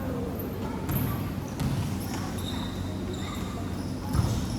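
Basketball bouncing on a court during play: a few separate thumps, with short high squeaks in between.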